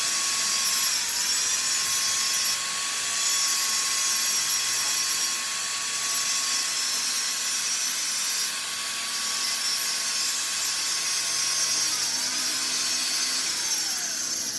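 Electric power tool running with a steady whine over a harsh hiss. The pitch dips briefly twice as the tool takes load, then falls away near the end as the motor winds down.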